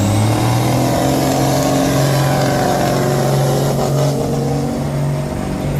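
Big diesel semi truck engine running hard at high, steady revs during a truck pull, its pitch stepping up a little near the start and then holding.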